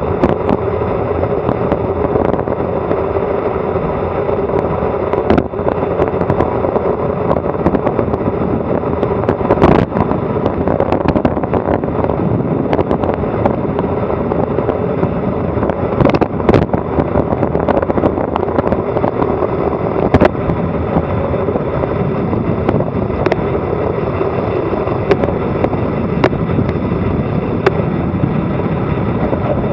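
Wind rushing over an action camera's microphone during a fast bicycle descent: a loud, steady noise broken by a few sharp knocks.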